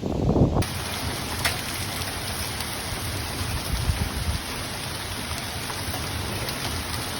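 Heavy rain pouring down in a steady hiss, after a short burst of wind rumbling on the microphone at the very start.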